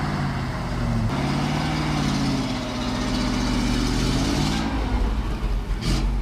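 ZIL-131 timber truck's V8 petrol engine labouring under full load through snow and mud, its pitch sagging and then climbing again. A sharp knock near the end.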